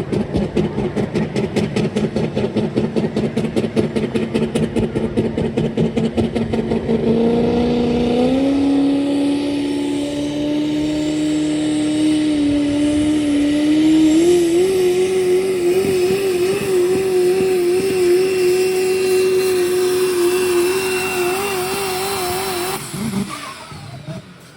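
Diesel pickup truck engine in a truck pull: it runs with a fast, even pulsing at first, then revs up in steps about seven seconds in and holds at high revs under load, the pitch wavering, until it cuts off suddenly near the end.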